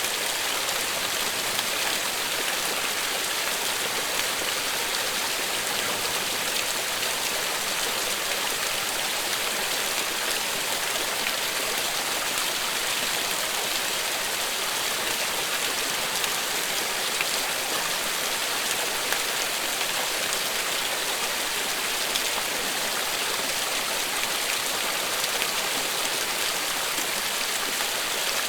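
Steady, continuous rain falling, an even hiss with faint scattered drop ticks.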